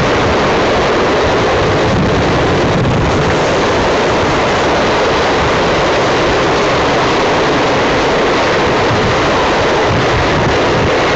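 Union Pacific auto rack freight cars rolling past: a steady, loud rush and rumble of steel wheels on rail that holds even throughout.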